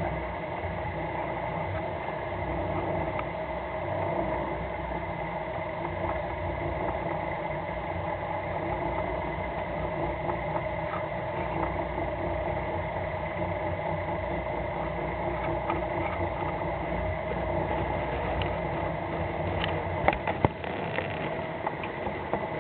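Fishing boat's engine running steadily, with a few sharp knocks near the end.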